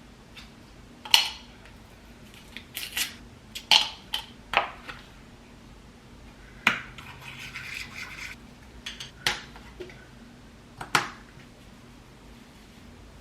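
Household objects being handled: a scattered series of about ten sharp clicks, clinks and knocks, with a short scraping rustle partway through.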